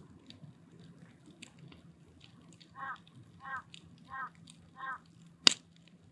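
Wood fire burning in a steel drum, crackling faintly, with one loud sharp pop near the end. In the middle a bird calls four times in a row, evenly spaced.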